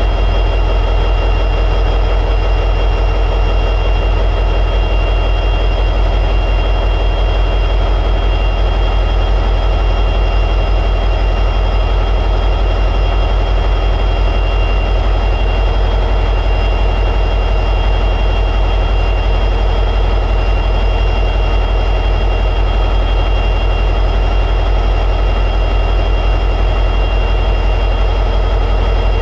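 EMD 710G3B two-stroke diesel prime mover of an SD60E locomotive running steadily at high idle, a deep, even engine sound with a faint, steady high whine over it.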